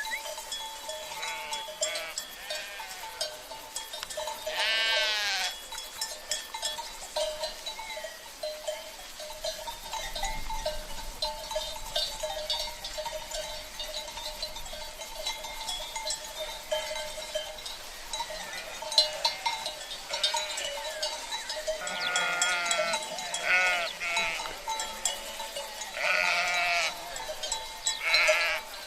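Sheep bleating several times, loudest about five seconds in and in a run of calls near the end, over the steady jangle of cowbells on the grazing flock and the faint rush of a river.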